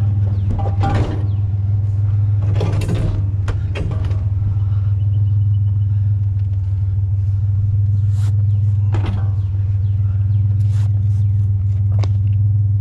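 Truck engine idling steadily, with a few scattered scrapes and knocks from a heavy freezer being shifted and handled.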